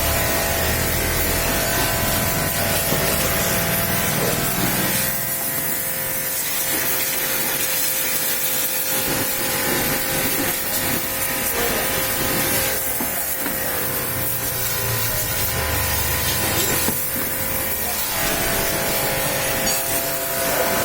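Pressure washer running with a steady motor whine under a loud spray hiss. The hiss swells and thins every few seconds as the jet moves over surfaces.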